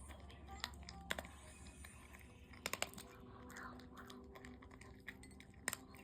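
A Chihuahua eating its food: scattered sharp clicks and crunches, a quick cluster of three about three seconds in and a pair near the end.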